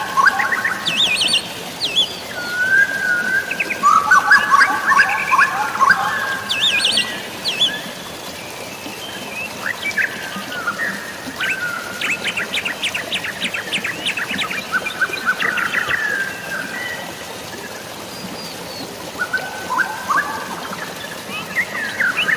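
Several birds singing and chirping, with rapid trills and quick upward-sweeping chirps, over a steady hiss of rain and running water. The song is loudest in the first eight seconds and thins to scattered chirps after that.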